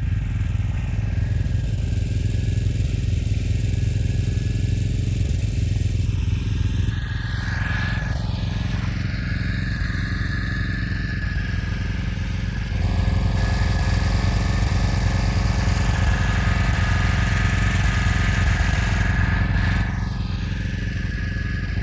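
Truck engine running steadily with a constant low rumble, getting a little louder about 13 seconds in.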